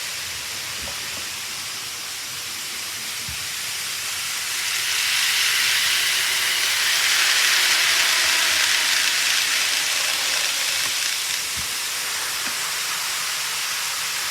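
Model train running on layout track: a steady rolling hiss that swells from about five seconds in, peaks, and eases off again a few seconds later, with a few faint clicks.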